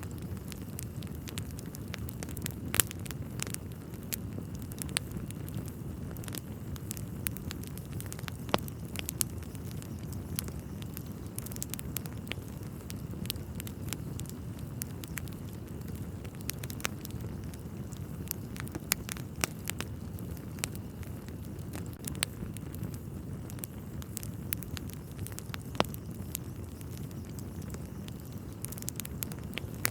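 Wood fire crackling in a fireplace: a steady low rumble of burning under frequent, irregular sharp pops and crackles.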